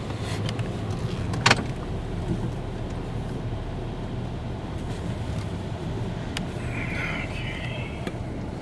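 Steady low rumble of a car, with one sharp click about a second and a half in.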